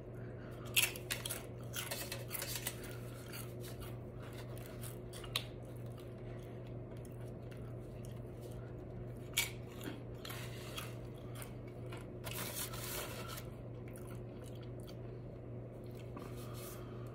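Close-miked crunching and chewing of tortilla chips dipped in salsa: a sharp crunch about a second in, then a run of chewing crunches, another bite around the middle and more crunchy chewing a few seconds later. A steady low hum runs underneath.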